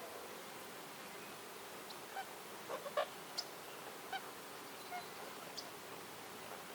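Wild birds calling over a steady hiss of outdoor ambience: a cluster of short, low calls about three seconds in, with a few brief high chirps scattered around it.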